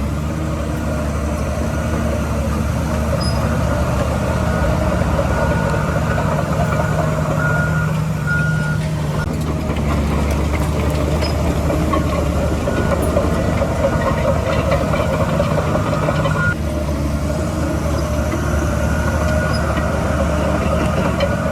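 Heavy diesel earthmoving machinery running steadily under load. A reversing alarm beeps on and off over it.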